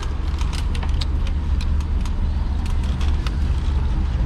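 Steady low rumble from a moving fat-tire e-bike ride, wind and tyre noise on the microphone, with frequent light clicks and rattles scattered through it.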